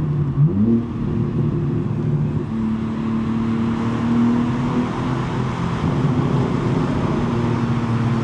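BMW M3 G80's twin-turbo inline-six with a non-resonated J-pipe exhaust, revving up briefly about half a second in and then pulling at steady revs under way.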